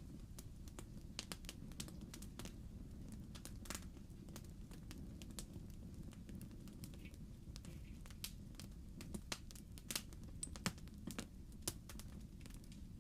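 Wood fire in a fireplace crackling: a steady low rumble of the burning logs with irregular sharp pops and snaps.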